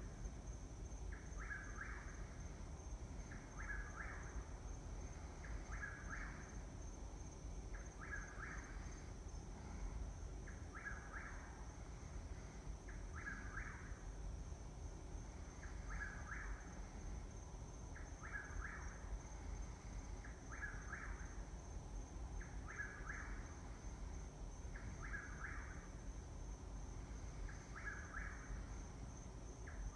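A bird calling over and over at night, a short call of a few notes about every two seconds, with a steady high insect trill behind it.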